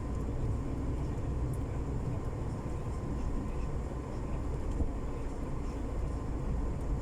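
Loaded semi-truck's diesel engine pulling under load up an icy slope, a steady low rumble.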